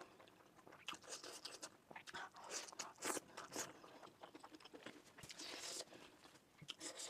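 Close-miked mouth sounds of eating momo dumplings: wet chewing and biting in an uneven run of soft clicks and smacks, played at double speed.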